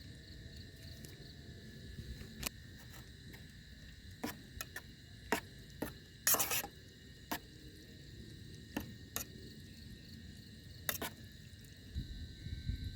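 Night insects, crickets and the like, chirring steadily in several high-pitched bands, with scattered sharp crackles from a campfire; the loudest crackle is a brief burst about six seconds in.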